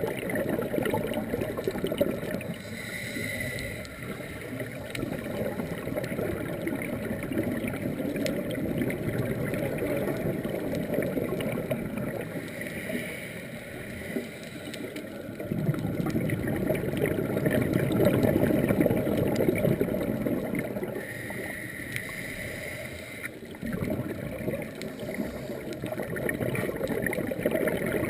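Underwater sound of a scuba diver breathing through a regulator: a short hiss of inhalation about every ten seconds, each followed by a long gurgling rush of exhaled bubbles.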